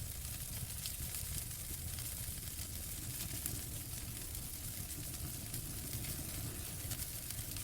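Wood fire burning in a fireplace: a steady hiss and low rumble of flames with a few sharp crackles and pops scattered through.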